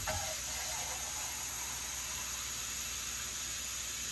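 Kitchen faucet turned on and running steadily, starting abruptly: water filling the emptied can to measure two cans of water for the rice pot.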